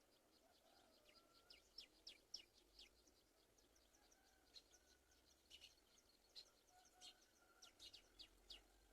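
Faint bird chirps: a run of quick, sharp, high chirps, each sliding downward, coming in loose clusters over a soft background hiss.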